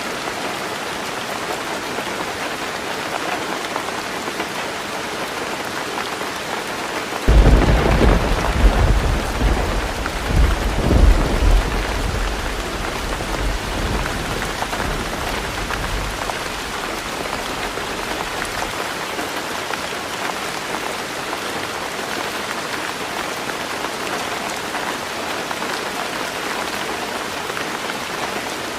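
Heavy rain drumming steadily on a tin roof. About a quarter of the way in a clap of thunder breaks in suddenly and rumbles in several surges, dying away over the next ten seconds.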